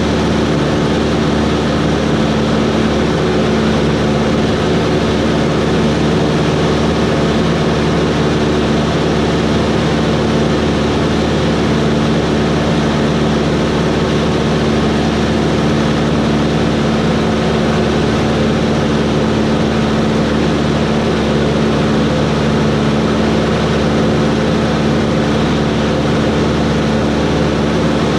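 Cessna 140's piston engine and propeller running at a steady drone, with no change in pitch or level.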